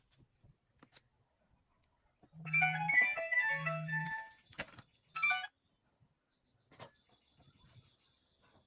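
A short electronic melody of quick, stepping notes over two low hums, lasting about two seconds, followed a second later by a brief run of rising notes.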